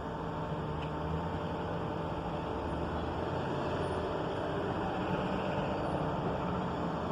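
A steady mechanical drone with a low hum and faint steady tones, unchanging throughout.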